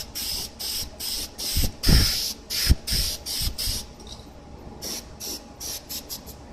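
Aerosol spray paint can sprayed in short, repeated bursts of hiss, about two or three a second, with a brief pause before a run of quicker, shorter bursts near the end. A few low thumps come in the middle.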